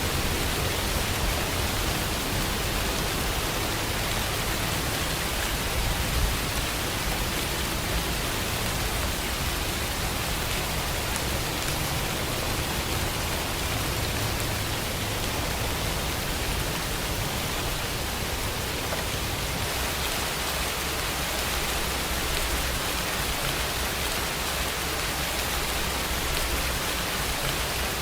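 Steady rain falling, an even hiss of drops with a low rumble underneath, unchanging throughout.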